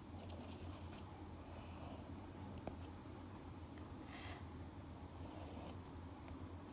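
Faint scratching of a pen drawing on paper, in several short strokes with pauses between, over a steady low hum.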